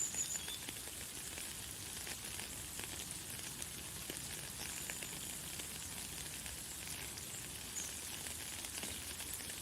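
Light, fine rain pattering steadily, with a few brief high bird chirps: one at the start, one around the middle and one near the end.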